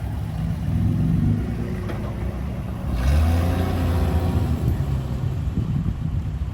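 Car engine running with a low rumble, swelling about a second in and revving up louder about three seconds in.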